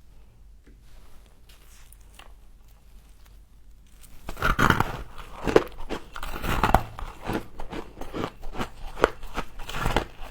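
Close-up crunching of a person biting into and chewing frost. It starts about four seconds in, after a quieter stretch of faint clicks, and goes on as a quick, uneven run of crisp crunches.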